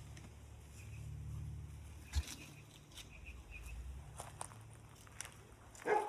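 Footsteps and scratching on the ground in a yard with poultry, over a low wind rumble on the microphone. There is a sharp knock about two seconds in, a few faint high peeps a little later, and a short louder call near the end.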